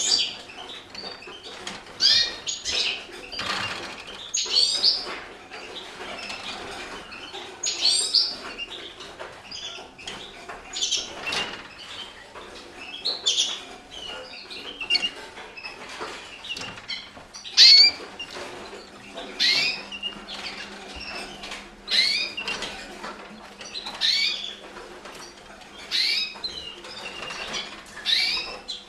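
Red factor canaries chirping in a birdroom: short high calls repeating every second or two.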